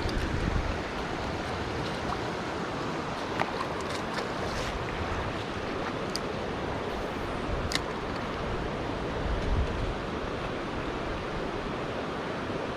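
Steady rush of river water running over rocky shoals, with a few faint clicks in between.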